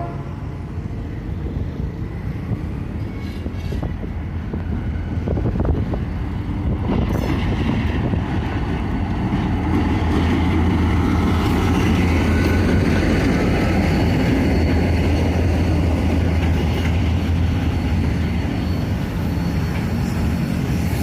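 Diesel locomotive hauling a train past: a low engine drone and wheel rumble that build over the first ten seconds or so, then hold steady.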